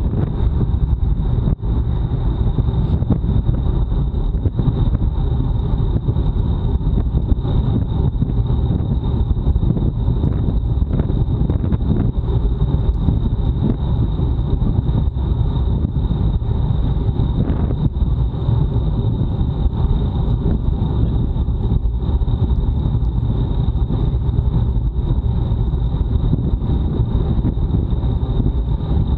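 Wind buffeting the microphone of a bike-mounted action camera while the bike is ridden at race speed, a loud, steady low rush. A thin, steady high whine sits above it.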